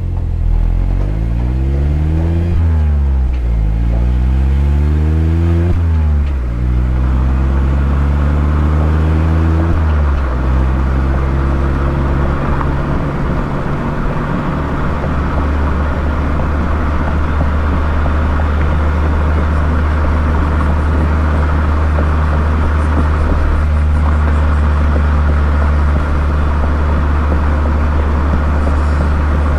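Mazda ND Roadster (MX-5) four-cylinder engine through a KPC aftermarket muffler, accelerating through the gears. The revs climb and drop at shifts about three and six seconds in, climb more slowly in the next gear, then settle into a steady cruise from about ten seconds in.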